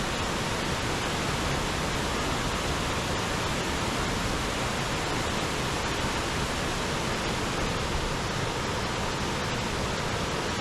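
A small mountain waterfall, a steady unbroken rush of falling water, running high with rain and snowmelt from the slopes above.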